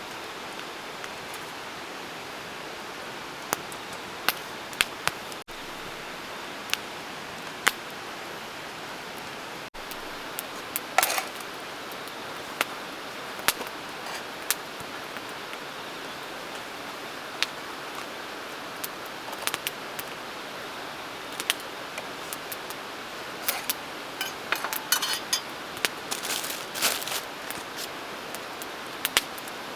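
Light clicks, clinks and short clatters of camp cookware being handled, busier a few seconds before the end, over a steady hiss.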